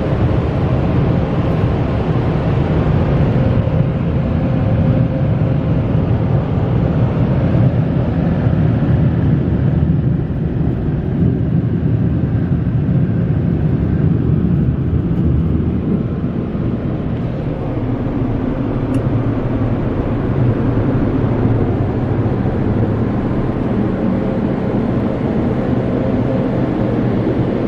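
Car wash dryer blowers running at the end of an in-bay automatic soft-touch wash: a loud, steady rush of air with a fan whine, which dips and changes about halfway through.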